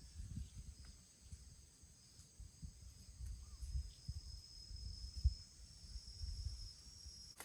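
Insects chirring steadily in the night, a thin high-pitched chorus, over uneven low rumbling and a few faint ticks.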